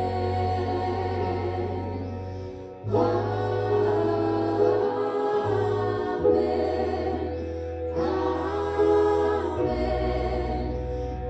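A Christian worship song: voices singing over sustained bass and keyboard chords, with new sung phrases starting every few seconds.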